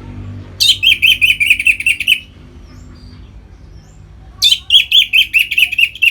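Orange-headed thrush singing in its full 'ngeplong' style: two runs of rapidly repeated high notes, each about a second and a half long, the second starting about four and a half seconds in.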